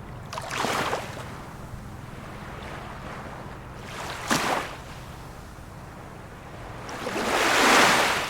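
Small waves of a calm sea washing in, three times a few seconds apart; the third is the longest and loudest.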